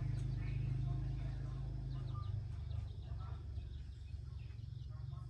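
A steady low engine hum that eases off a little about two seconds in but keeps running, with birds chirping over it.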